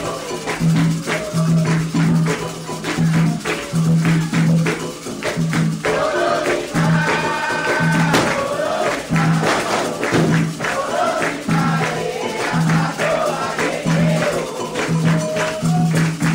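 Candomblé ritual music: atabaque hand drums playing a repeating pattern of deep strokes with sharp percussion over it, and voices singing a chant from about six seconds in.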